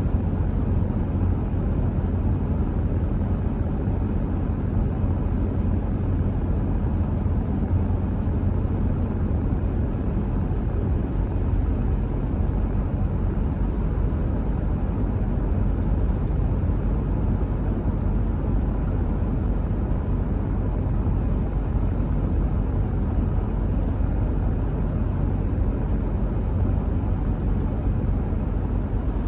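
A car driving at a steady speed: an even, unchanging low rumble of road and engine noise.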